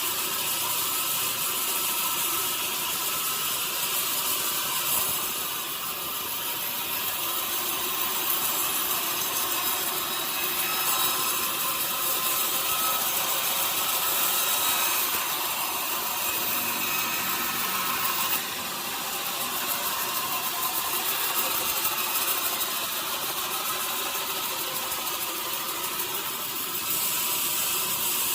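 Sawmill saw cutting through a large log, with a steady hiss of blade through wood over the running machinery; the sound dips and changes briefly a few times.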